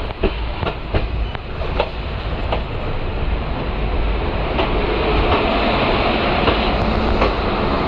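A moving train running on the rails: a steady rumble with sharp wheel clicks over rail joints in the first couple of seconds, then a steadier, slightly louder rumble.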